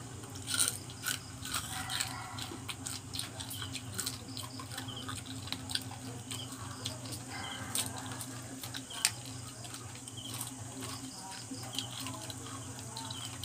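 Crunching and chewing of crispy deep-fried small crabs, shells cracking in short sharp crackles scattered irregularly, the loudest about half a second in and about nine seconds in. A steady low hum runs underneath.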